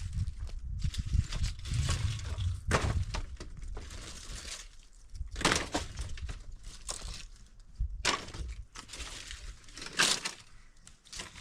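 Irregular sharp cracks and crunches, several seconds apart, over a low rumble.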